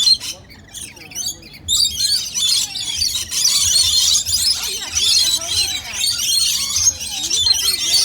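A flock of lorikeets chattering: many shrill, high chirps overlapping. The chatter thins briefly in the first second or so, then runs on thick and continuous.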